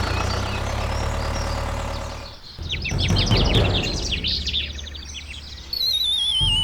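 Engine idling steadily for about two seconds, then cut off. A quick run of bird-like chirps follows, and near the end a falling, warbling whistle.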